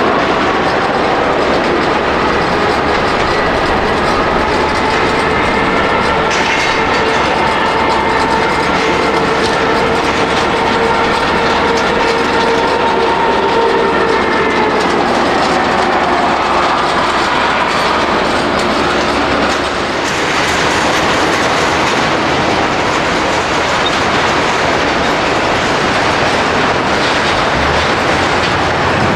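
Jet airliner passing close by, its engines running with a loud roar and several whining tones. The whine drops in pitch about halfway through as the aircraft goes past, leaving a broad rushing roar.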